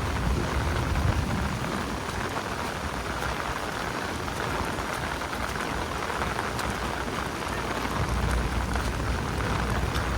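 Steady rain falling on a city street, an even hiss of rain on pavement. A low rumble sits under it at the start, fades, and returns near the end.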